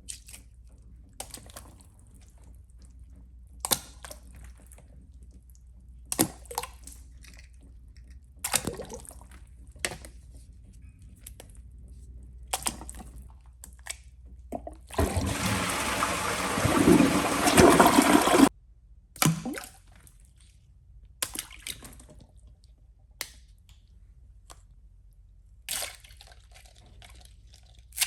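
A toilet flushing about halfway through: a loud rush of water lasting about three and a half seconds that cuts off suddenly. Before and after it, a series of short splashes and knocks.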